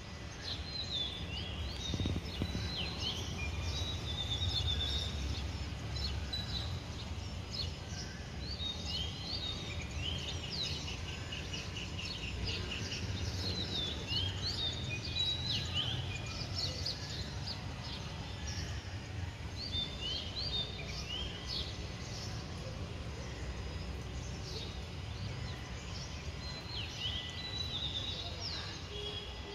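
Several small birds chirping and calling, with short sweeping notes and one quick trill about ten seconds in, over a steady low background rumble.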